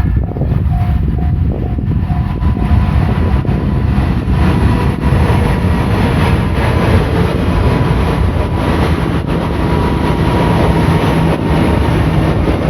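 Train passing close by at a level crossing: a loud, steady rumble of wheels on rail with irregular clacks, and a faint thin whine over much of it. The crossing bell's repeating ding is heard for about the first second and a half, then is drowned out by the train.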